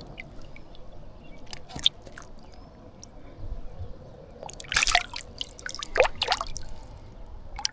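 Stream water splashing and dripping at the waterside, with scattered small clicks and a couple of louder brief splashes about five and six seconds in.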